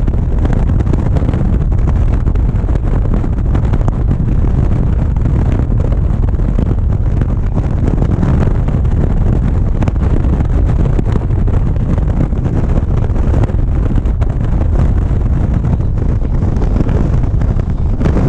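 Motorcycle engine running at riding speed under heavy wind rumble on the microphone, steady and loud throughout.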